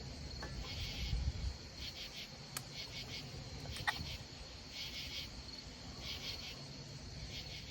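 Crickets chirping outdoors at night, short trills of rapid pulses repeating about once a second. A sharp click about two and a half seconds in and a brief falling note about four seconds in.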